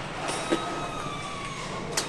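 Engine assembly-line machinery running: a steady hum with a thin whine that slowly sinks in pitch, and a sharp metallic click about half a second in and again near the end.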